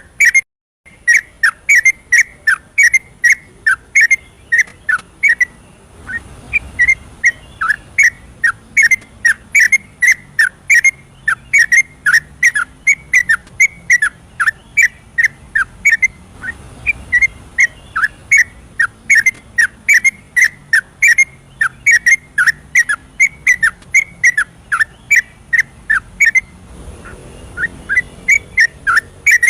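Yellow-vented bulbul (trucukan) singing a loud, fast run of short whistled notes that repeat several times a second, the rapid 'ropel' song used by bird keepers as a lure to get other bulbuls singing. There is a brief gap in the song just after the start.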